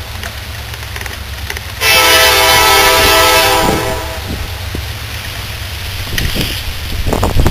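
Norfolk Southern SD70M locomotive's horn sounding a held chord, loud for about two seconds and then fading back. Near the end a rushing, rumbling noise builds up.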